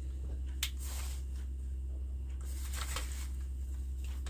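Light rustling and handling of grocery packaging and paper, with a sharp click about half a second in and a longer rustle near the middle, over a steady low hum.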